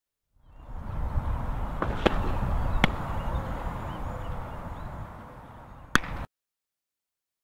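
Steady outdoor ambience with three sharp pops, the second the loudest, typical of a softball smacking into a catcher's mitt after pitches. The sound cuts off abruptly near the end.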